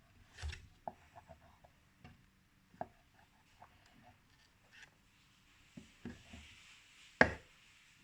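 Scattered light taps, clicks and rubbing from brushing paint onto a small wooden birdhouse, with one sharper, louder knock about seven seconds in.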